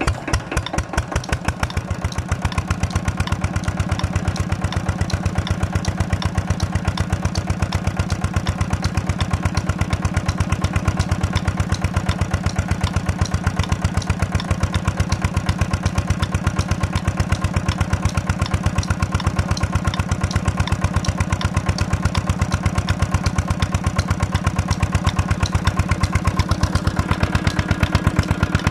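Peter (Petter-type) diesel engine of a tubewell pump set running with an even, rapid chug of firing pulses, picking up speed over the first couple of seconds after catching and then holding steady.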